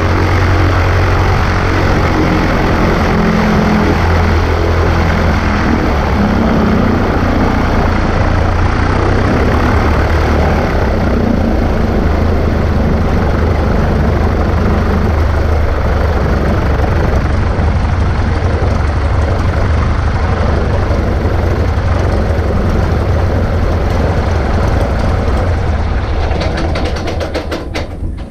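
Cessna 140A's piston engine and propeller running steadily, loud and low. Near the end the engine winds down, its firing strokes slowing and separating as it stops.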